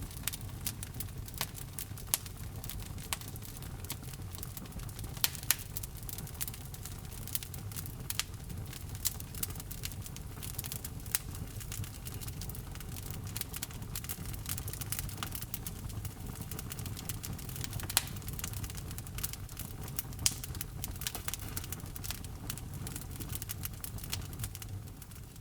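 Fire burning in a fireplace: a steady low rumble of flames with frequent sharp crackles and pops, fading out at the very end.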